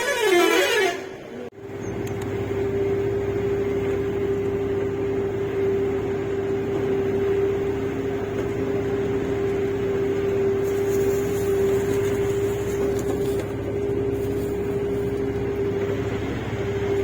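Steady drone of a bus running, heard from inside the passenger cabin: an even hum with a constant whine, starting abruptly about a second and a half in.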